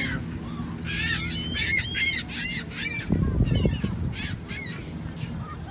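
Birds calling in a rapid run of short, harsh, rising-and-falling squawks with brief gaps, thinning out near the end. A low rumble comes in about three seconds in.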